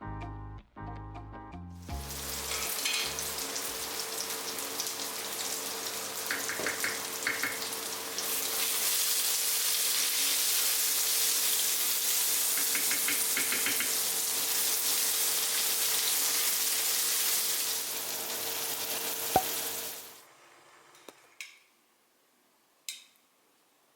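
Food sizzling in a frying pan, a dense hiss that gets louder about a third of the way in, with a steady faint hum beneath it. It cuts off abruptly near the end, followed by a few light clicks.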